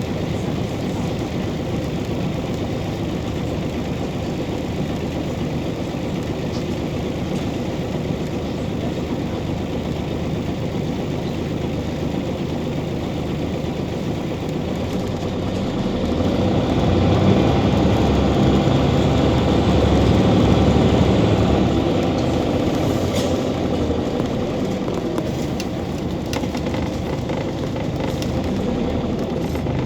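Scania OmniCity city bus's diesel engine running steadily while the bus drives, with tyre and road noise. Past the middle it grows louder for several seconds as the engine works harder, then eases back.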